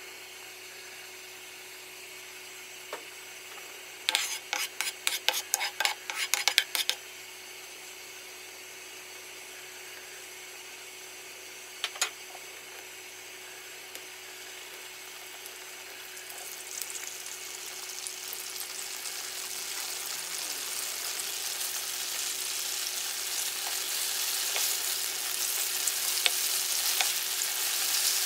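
Tofu slices frying in hot oil in a nonstick pan: a sizzle that starts about halfway through and grows steadily louder. Earlier come a quick run of sharp clicks and one single click.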